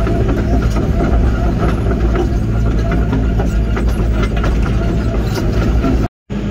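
Link-Belt 145 excavator's diesel engine running steadily, with scattered light clicks and clanks over it. The sound cuts out completely for a moment near the end.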